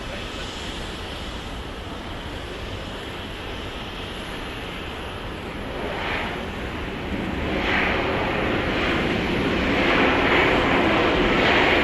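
Jet engines of a Boeing 737 MAX 8 (CFM LEAP-1B) on landing: a steady rushing engine noise that grows clearly louder about halfway through as the airliner comes closer, swelling several times.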